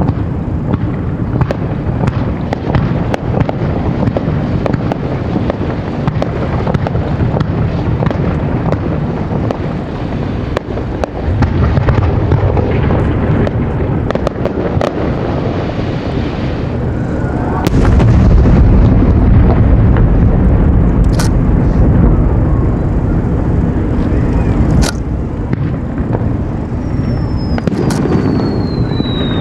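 Fireworks display: a dense run of aerial shells bursting with deep booms and sharp cracks that merge into a continuous rumble, growing louder a little past halfway. Near the end a short falling whistle comes from a whistling shell.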